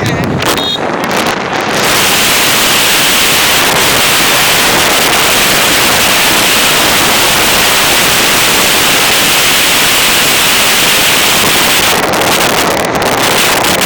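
Loud, steady wind rushing over the microphone of a moving vehicle.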